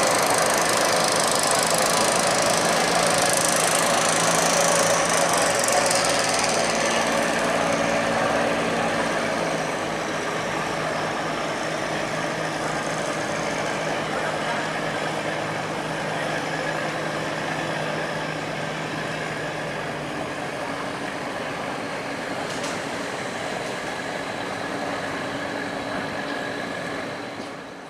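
A heavy engine running steadily with a knocking beat. It gradually gets quieter from about a third of the way in and cuts off sharply near the end.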